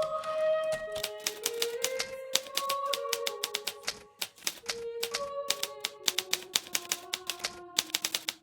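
Hermes Baby portable typewriter typing: a quick, irregular run of keystrokes with a short lull about four seconds in. Soft music of slow, held notes plays underneath.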